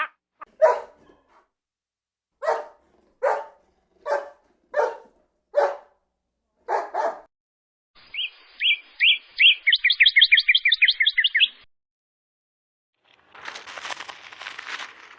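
Animal calls from a string of separate clips: about eight short calls, about one a second, then a rapid run of high chirps that speeds up, then a shuffling noise near the end.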